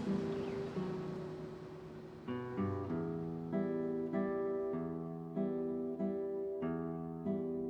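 Background music: acoustic guitar strumming chords in a steady rhythm, a strum about every half second from around two seconds in, after softer held chords.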